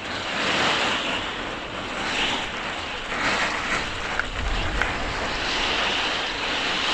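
Heavy rain pelting a caravan's roof and walls in a storm, heard from inside, with gusting wind making the noise swell and ease every second or two.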